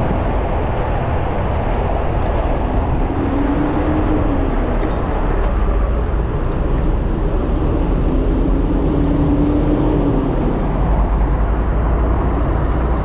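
Steady wind rush on the microphone over surrounding road traffic while riding. Twice a faint hum rises slightly and fades away.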